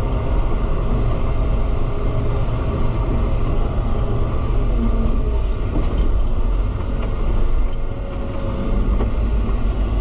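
Big White farm tractor's engine running steadily under way in a tall gear, with a heavy low rumble.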